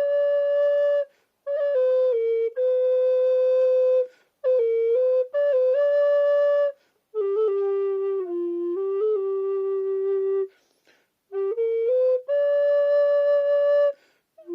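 Alto recorder played solo, freely improvised: short phrases of held notes moving up and down by small steps, broken by brief pauses.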